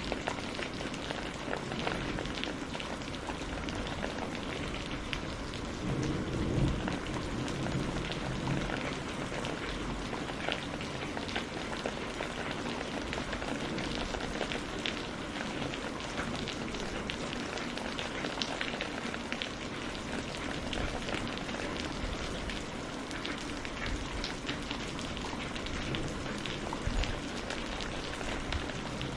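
Steady rain falling, with many separate drops pattering close by. A low rumble of distant thunder swells about a quarter of the way through.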